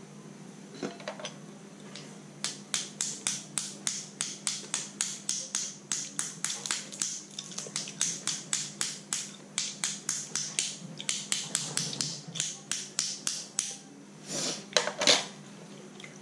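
Close-up wet chewing and lip smacking while eating crab meat: a quick, even run of about three to four smacks a second, with a louder burst near the end.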